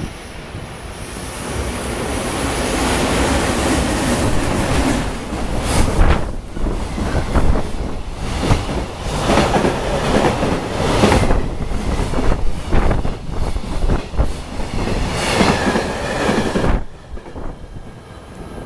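Freight train hauled by a JR Freight EF510 electric locomotive passing at high speed: a rising rumble as it comes in, then the rhythmic clickety-clack of the wagons' wheels over the rail joints. The noise falls away suddenly near the end as the last wagon passes and the train recedes.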